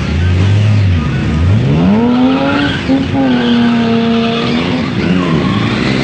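BMW car engine revving hard while drifting: a low steady note for about a second, then a sharp rise to a high held pitch that dips briefly about three seconds in and falls away again about five seconds in, with tyres skidding on the tarmac.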